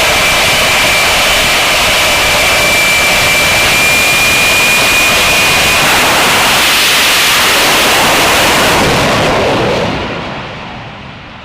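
Jet truck's jet engine at full power: a loud roar with a high, slightly rising turbine whine. The whine drops out about halfway through, and the roar then dies away near the end.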